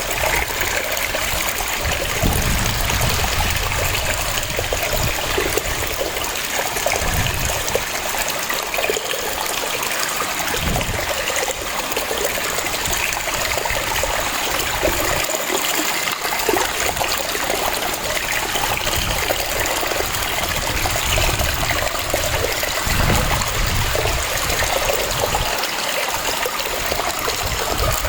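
Waterfall: water cascading and splashing in a steady, full rush, with irregular low rumbling surges.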